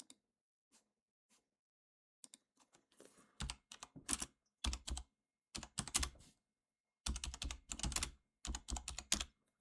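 Typing on a computer keyboard: short bursts of rapid keystrokes, starting about two seconds in, with brief pauses between bursts.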